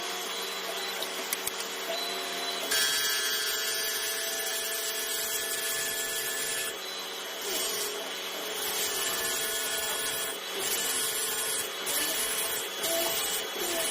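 CNC router running and cutting board, a steady machine whine with several held tones over cutting noise. The tone shifts about three seconds in and again about seven seconds in as the cut changes.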